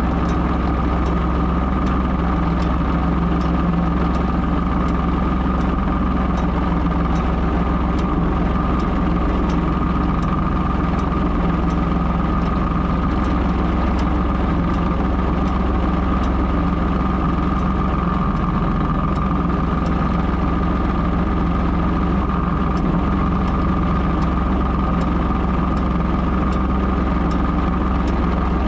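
Ford 3000 tractor's three-cylinder engine running steadily at an even speed, with no revving or change in pitch.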